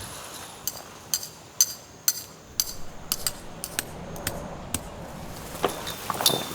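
A dozen or so sharp metal clinks at irregular intervals, some ringing briefly, followed near the end by louder rustling and handling noise.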